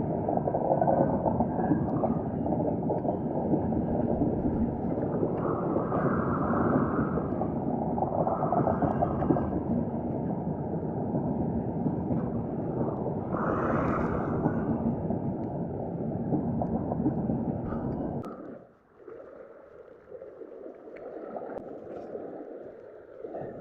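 Wind buffeting the microphone: a loud, low rumble that drops away suddenly about eighteen seconds in.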